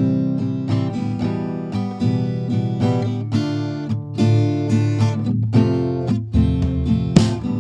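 Background music: acoustic guitar playing, plucked notes and strums.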